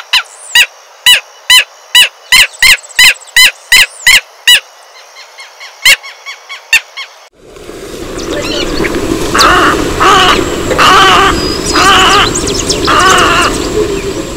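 Southern lapwing calling: a fast run of loud, sharp repeated notes, about four a second, thinning to a few weaker notes. Then, in a different recording over a steady background noise, a snowy egret gives five hoarse calls about a second apart.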